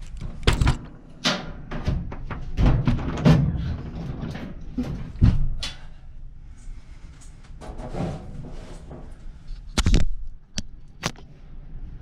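Clothes dryer and its flexible vent duct being worked back into place: irregular knocks, thumps and scraping, with a sharp knock about ten seconds in.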